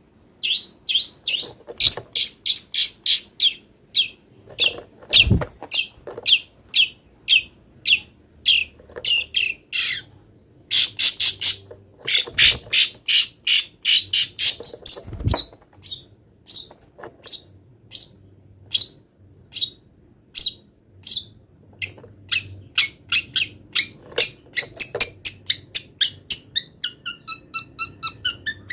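Long-tailed shrike (cendet) singing: fast runs of short, sharp, high notes that it strings together with calls copied from other wild birds. A few soft thumps are heard around it. Near the end the notes change to a run of arching calls with several pitches stacked together.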